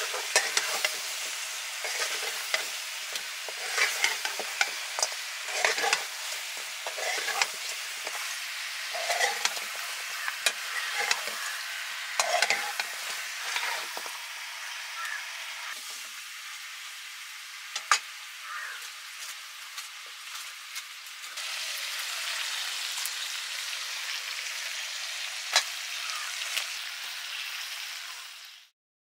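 Chicken sizzling as it fries in hot oil in a pan, stirred with a utensil that clicks and scrapes against the pan. The frying hiss grows louder and steadier about three quarters of the way through, then cuts off suddenly.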